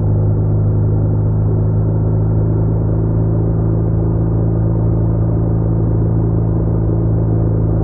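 BMW R1200R boxer-twin engine running at a steady cruising speed, a constant low drone with road and wind noise.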